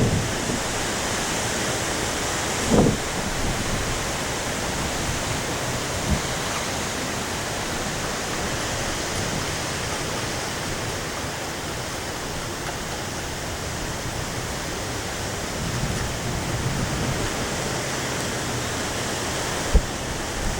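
Steady heavy rain and wind of a passing storm, an even hiss, with a few brief thumps about three seconds in, about six seconds in and near the end.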